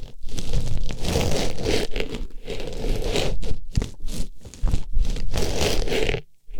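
Artificial rose pushed into and rubbed around a microphone's ear, giving loud, close scratchy rustling with a few short breaks and a pause near the end.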